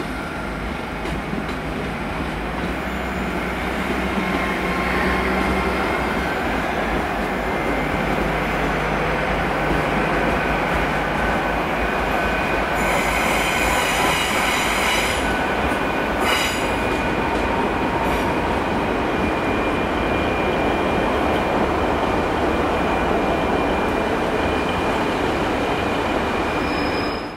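GWR Intercity Express Train passing along the platform with a steady rumble of wheels and running gear. A brief high squeal comes around halfway, followed by a single sharp click.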